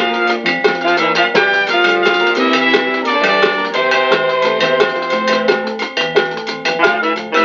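A Latin dance band playing an instrumental passage with no singing: held melody notes over a steady percussion beat.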